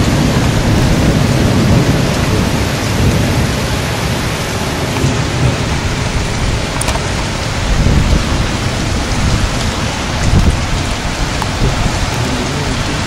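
Heavy rain pouring steadily, with low rumbles of thunder swelling near the start and again about eight and ten seconds in.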